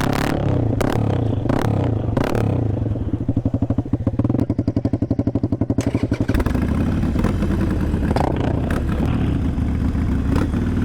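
Honda CBR250R's single-cylinder engine running loud through a cheap shorty straight-pipe exhaust as the bike rides off, with a few sharp cracks early on. Its beat slows and turns uneven for a few seconds mid-way, then settles to a steady note.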